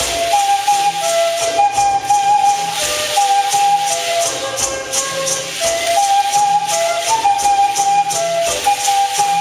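Music in a pre-Hispanic style: a flute plays a slow melody of held notes over the steady shaking of rattles, about three to four strokes a second.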